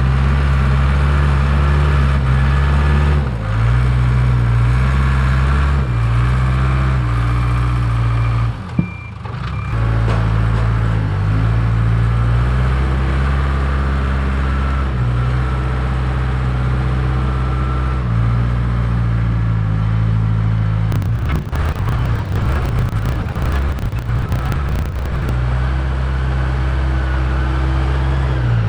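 Case 580K backhoe's diesel engine running steadily under load while it pushes piles of dirt. There is a stretch of rougher, grittier noise about three-quarters of the way through.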